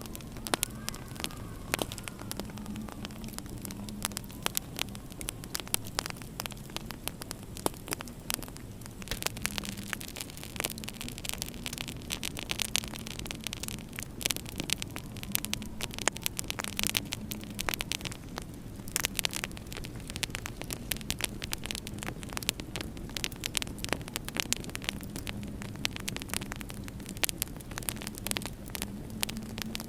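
Wood fire crackling in a fireplace: many sharp, irregular pops and snaps over a low, steady hum.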